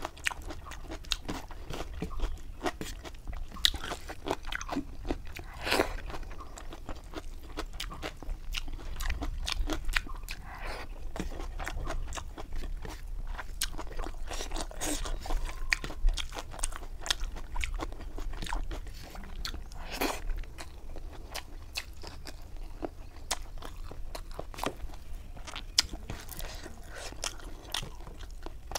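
Close-miked eating sounds: chewing and crunching through a mouthful of rice and fried catfish eaten by hand, with irregular crisp crackles and wet mouth clicks.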